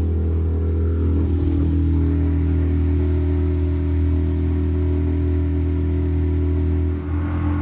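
Motorboat engine running steadily under way, with a strong low hum. Its pitch shifts about a second in and changes abruptly near the end.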